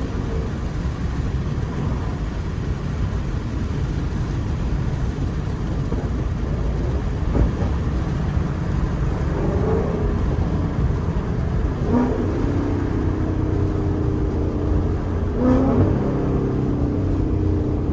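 Ford Mustang GT V8 running through Stainless Power headers and a Ford Performance by Borla cat-back exhaust while driving: a steady low exhaust rumble with road noise. In the second half the engine note changes pitch in steps a few times, each change marked by a brief sharp blip.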